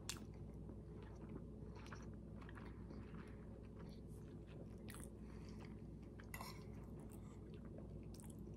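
A person chewing a mouthful of orange chicken and rice, faint, with scattered small clicks from the mouth and lips.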